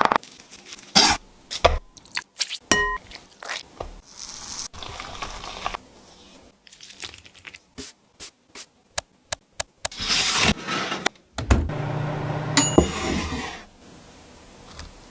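Dishes and utensils clattering and scraping as food is handled, with many sharp clicks and knocks and a ringing clink about three seconds in. Two longer rustling, scraping stretches come past the middle.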